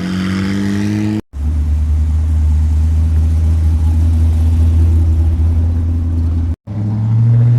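Vehicle engines in three pieces split by abrupt cuts. The first revs up with rising pitch, the second is a steady, deep low rumble for about five seconds, and the third is another engine running steadily at a higher pitch near the end.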